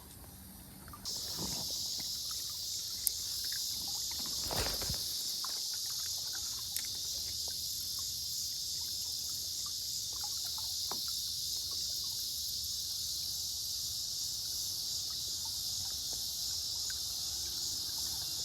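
A steady, high insect drone of crickets or cicadas, starting abruptly about a second in, with a single low thump about four and a half seconds in and a few faint clicks.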